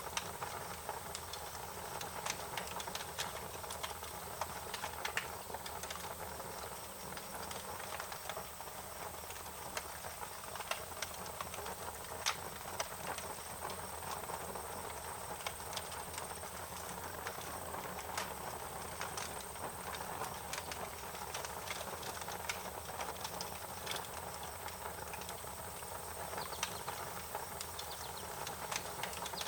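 Wood fire crackling, with frequent sharp irregular pops and snaps over a steady soft hiss.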